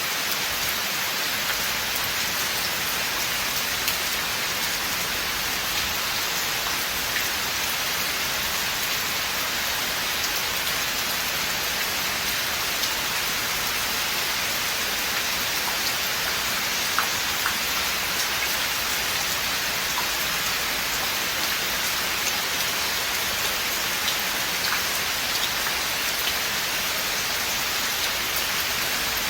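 Steady rain falling in a forest, an even hiss with scattered individual drops ticking on nearby surfaces.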